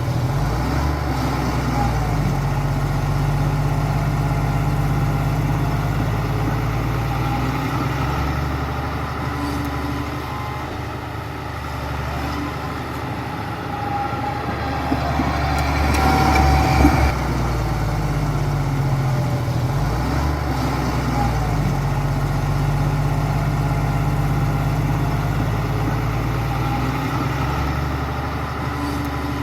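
Diesel engine of heavy construction machinery running under varying load, its pitch stepping up and down several times. Midway through there is a louder surge with some clanking.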